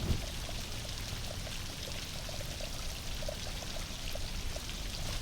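Heavy rain falling, with water running and pouring and many small irregular drips.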